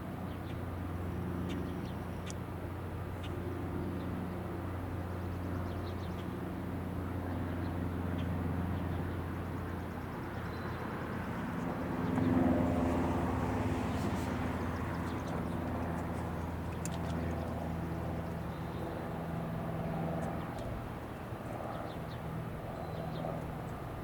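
Steady low engine hum of road traffic, with a louder vehicle passing about halfway through.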